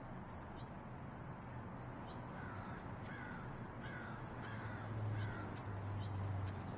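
A bird calling five times in a row, each call a short falling note, about one every 0.7 s, over a low steady hum that swells a little near the end.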